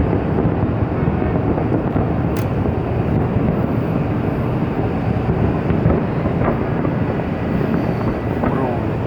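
Fireworks display: a continuous low rumble of many overlapping booms, with a few faint crackles.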